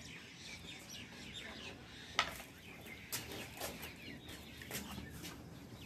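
Birds chirping and calling in short, scattered bursts in the background, with a single sharp tap about two seconds in.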